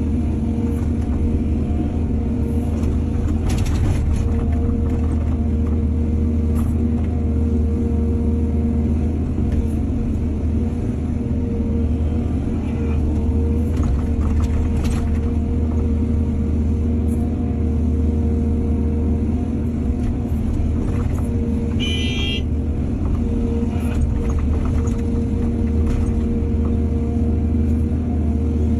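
Diesel excavator engine running steadily under load, with a few light clanks and a brief high squeal about three-quarters of the way through.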